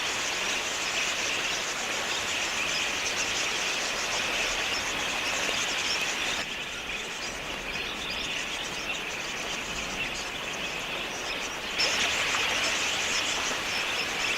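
Large flock of budgerigars chattering: a dense, continuous high twittering of many birds. It drops a little in level about six and a half seconds in and rises again near twelve seconds.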